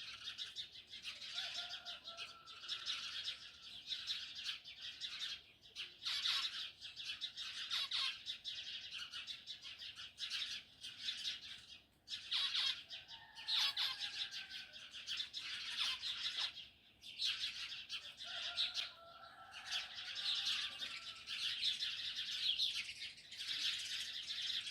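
A dense chorus of many small birds chirping rapidly and continuously, with a few lower gliding calls now and then.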